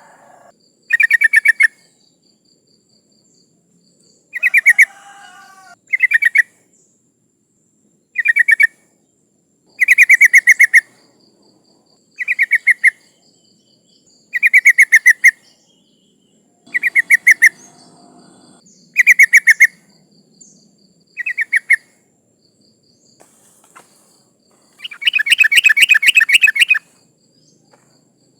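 Yellow-vented bulbul (trucukan) giving about a dozen short, bubbly, rapidly warbled phrases with gaps between them, and a longer phrase of about two seconds near the end. This is the female's call, used as a lure to get males singing.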